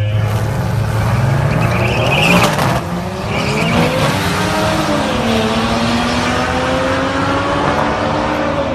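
Turbocharged Toyota Supra accelerating hard: the engine's pitch climbs for about two and a half seconds, breaks off sharply near three seconds at a gear change, then rises again and settles into a steady higher drone. A short high whistle comes just before the shift.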